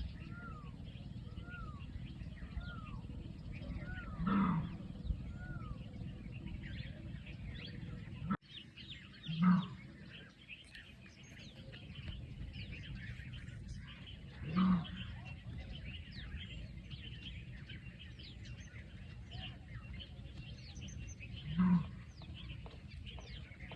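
A large wild animal calling with a single low call, four times at intervals of about five seconds. Many birds chirp and call throughout, and one bird repeats an arched call about every 0.7 s in the first few seconds.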